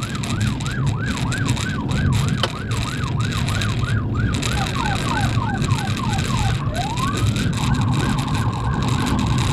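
Police car siren in yelp mode, rising and falling about three times a second, then switching to faster falling sweeps and a rising glide, and from about three quarters of the way in a rapid steady warble. Engine and road rumble run underneath.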